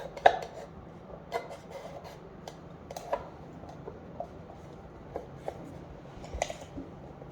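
Birdhouse-kit pieces being handled on a table: scattered light clicks and taps, a few a second at most, over a faint steady hum.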